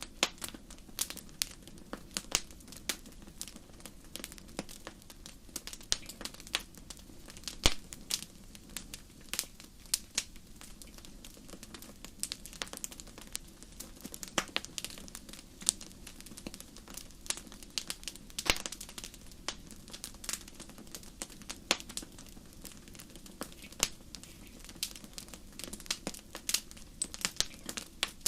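Fireplace fire crackling: irregular sharp pops and snaps, several a second, over a soft steady rush of flame.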